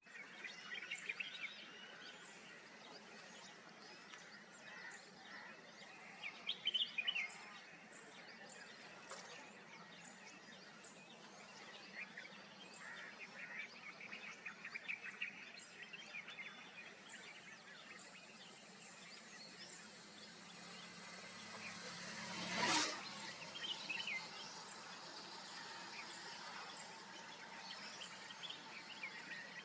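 Ambient wetland-grassland birdsong: many scattered short bird chirps and calls of mixed species over a steady background hiss, with faint insects. About three-quarters of the way through, a brief loud whoosh swells and fades.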